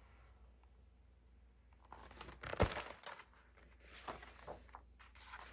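Book pages being handled and turned, with crinkly paper rustling and a single thump about two and a half seconds in. The first two seconds are faint room tone.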